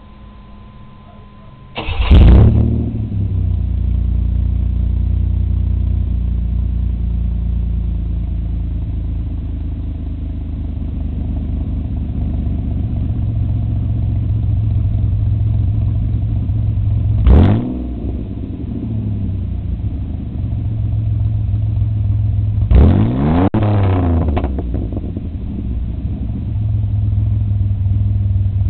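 1989 Camaro's 2.8L V6 exhaust through a glasspack muffler: the engine starts with a loud burst about two seconds in and settles into a steady idle. It is blipped once in the middle, then twice in quick succession later, each rev rising and falling back to idle.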